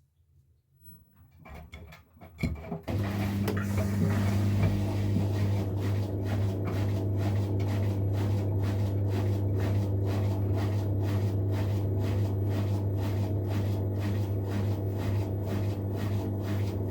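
Miele Professional PW 6065 Vario washing machine starting up again about three seconds in after a quiet pause during its intermediate spin: a steady low hum with a regular swishing pulse about twice a second.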